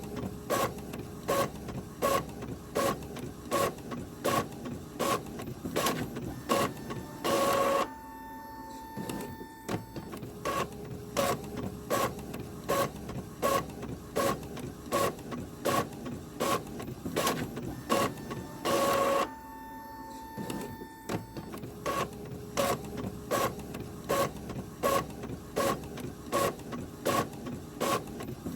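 Printer running: a regular beat of short mechanical strokes, about two a second. Twice, a louder burst of just under a second is followed by about two quieter seconds with a steady hum, and then the strokes start again.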